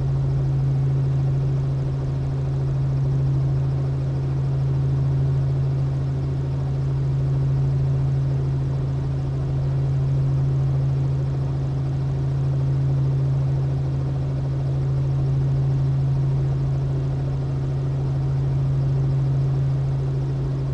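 Robinson R44 helicopter running on the ground: a steady low drone that swells and fades slowly about every two and a half seconds.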